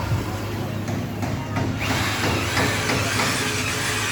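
Truck-body workshop noise: a steady low hum with scattered clicks and tool sounds over it.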